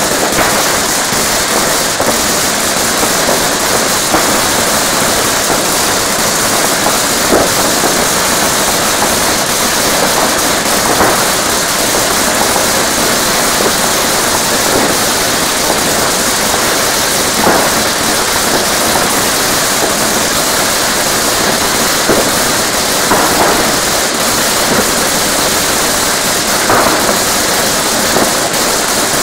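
A steady, loud hiss with a handful of faint, distant firework bangs scattered through it, spaced a few seconds apart.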